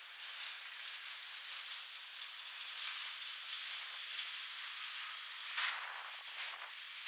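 Freight train cars rolling past on the rails, a steady even rolling noise with a brief louder clatter about five and a half seconds in.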